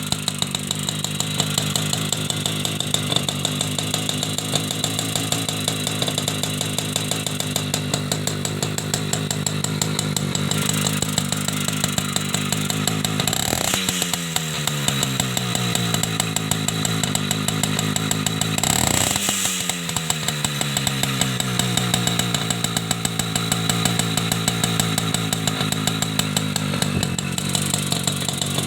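Small two-stroke Leningrad-made auxiliary bicycle engine running at a steady idle with a fast even beat, blipped twice, about 13 and 19 seconds in: each time the revs shoot up and then sink slowly back to idle.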